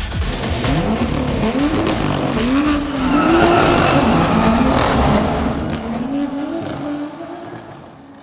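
BMW M2 Coupé's turbocharged straight-six driven hard, its engine note rising and falling several times as it revs up and shifts. It fades out near the end.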